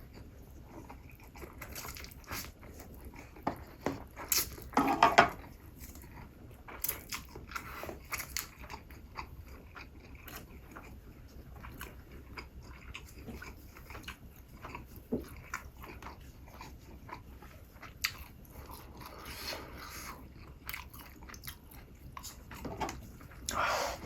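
Close-miked eating: a person biting and chewing food, with crisp crunches and wet mouth clicks. There are louder bites about five seconds in and again near the end.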